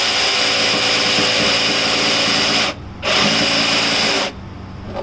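Jigsaw cutting through a countertop, running steadily with a short pause just under three seconds in, then stopping about a second before the end as the cut-out piece comes free.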